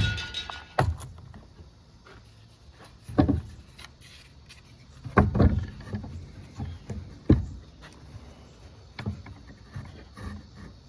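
Several separate knocks and clunks, five or six spread over the stretch, as the just-assembled homemade filter box and its parts are handled and set down.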